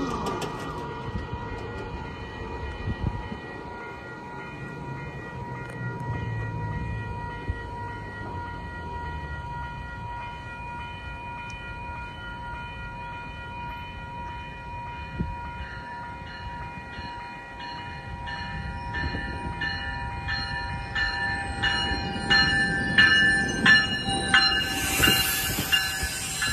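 A level-crossing warning bell rings steadily while a GO Transit bilevel commuter train approaches and its rumble grows. In the last seconds the coaches roll past close by, with rhythmic wheel clicks over the rail joints and a high wheel squeal.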